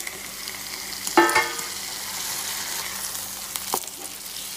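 Raw marinated chicken pieces sizzling in hot onion masala in a nonstick pan, a steady frying hiss as they are tipped in from a steel bowl. A short knock sounds about a second in, with a smaller one near the end.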